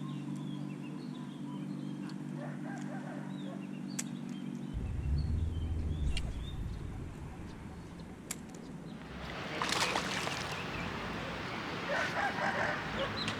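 Birds calling, with short chirps and clucks scattered throughout, over a steady low hum that cuts off a few seconds in; a louder rushing noise rises about nine seconds in.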